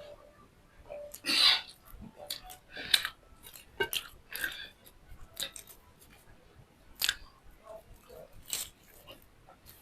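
Close-up eating sounds of a person chewing and biting food. Irregular wet smacks and clicks come every half second to second, the loudest about a second and a half in.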